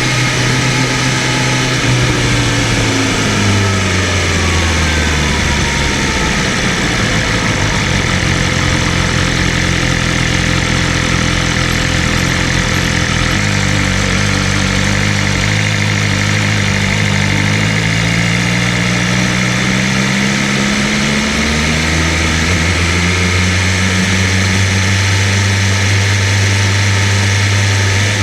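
BMW M1000RR's inline-four engine heard from on board while riding. Its pitch falls over the first few seconds as the bike slows, then holds low and steady. About halfway it steps up and climbs for several seconds under acceleration, then drops back and holds steady near the end, with constant wind and road noise throughout.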